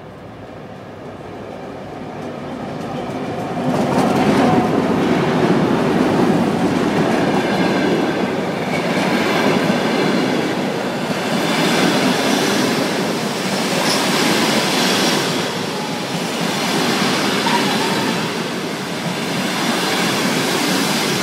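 Locomotive-hauled passenger train pulling into a station: the locomotive grows louder over the first four seconds as it approaches and passes, then the coaches roll slowly by with wheels clattering over the rail joints and a faint wheel squeal as it slows.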